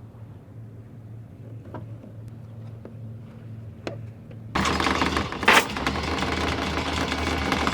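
Sailboat's engine running with a steady low hum and a few light clicks. About four and a half seconds in, the sound jumps abruptly to a much louder rushing noise over the engine's drone.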